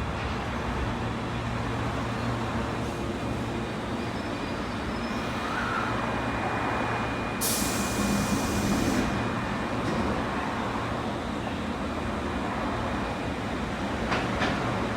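Osaka Metro train at a station platform, a steady low rumble, with a sharp hiss of released brake air about seven and a half seconds in that lasts about a second and a half. Steady tones begin near the end.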